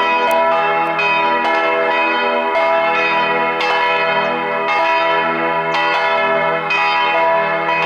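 Church bells pealing, a new strike about once a second, each bell ringing on under the next.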